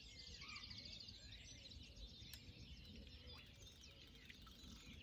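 Faint birdsong: several small birds chirping and trilling over a low, steady rumble.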